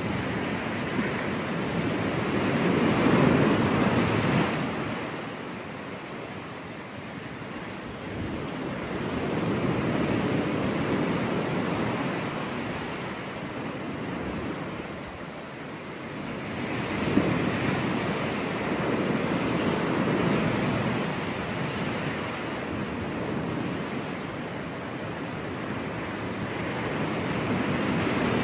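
Ocean surf on a beach: waves breaking and washing in, swelling and fading every several seconds, with some wind on the microphone.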